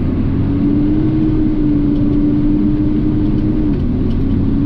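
Garbage truck's engine and drivetrain running while driving along, a steady droning note over a low rumble that rises a little in the first second and dips briefly near the end.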